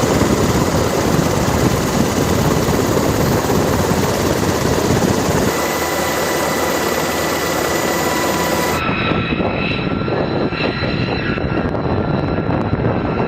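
B-2 Spirit stealth bomber's jet engines running, a loud steady rush of noise with a faint high whine over it. The sound changes abruptly about five and a half seconds in and again about nine seconds in, where the upper treble drops away, as the footage cuts between shots.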